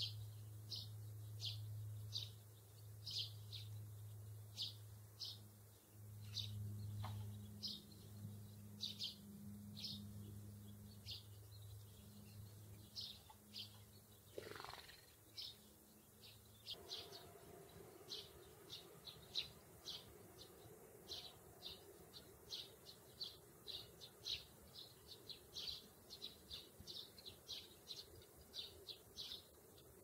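A small songbird chirping over and over in short, high chirps, which come faster in the second half, over a faint low hum that stops about halfway through.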